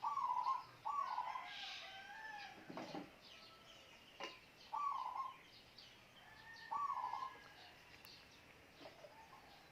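Birds calling: a short call repeated four times, a couple of seconds apart, over fainter chirping, with two brief knocks in the middle.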